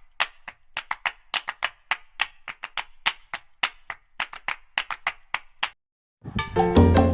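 A fast, uneven series of sharp percussive clicks, about four a second, that stops about two-thirds of the way through. Latin dance music with a strong bass starts near the end.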